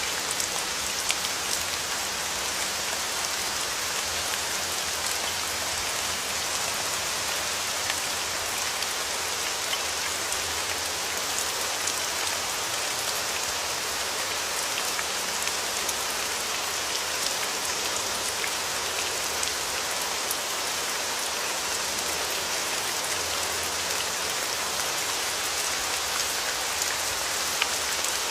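Steady rain falling, an even hiss with scattered individual raindrop ticks.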